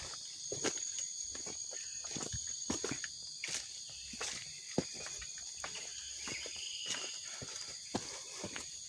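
Footsteps on a wet forest trail, irregular crunching and squelching steps, over a steady high drone of insects.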